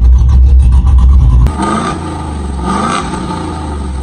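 Old-model Nissan Patrol exhaust at speed: a loud, heavy low rumble that drops off suddenly about a second and a half in, then two short swells in pitch about a second apart.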